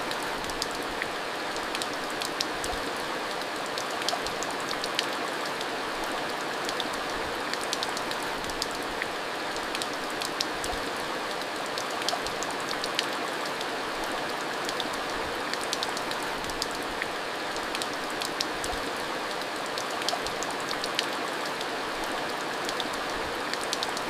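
Steady heavy rain falling, with a constant hiss and many sharp individual drops ticking on a surface throughout.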